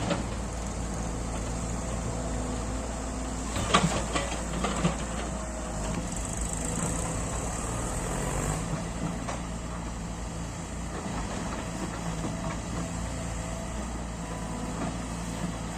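Heavy diesel machinery engine running steadily, with a few sharp clunks about four seconds in.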